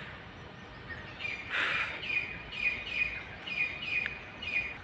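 A bird calling repeatedly in short chirps, about two a second, starting about a second in, with a brief rustle about one and a half seconds in.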